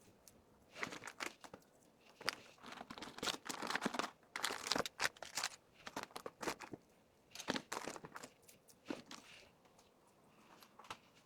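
Packaging crinkling and rustling in irregular bursts as small items are handled and packed, with a pause now and then.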